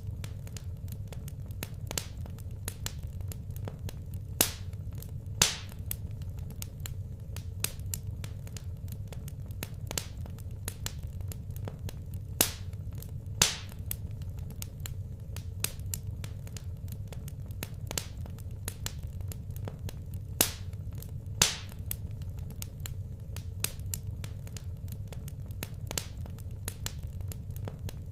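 Wood fire crackling in a fireplace: a constant scatter of small crackles with a few sharper pops every several seconds, over a low steady rumble.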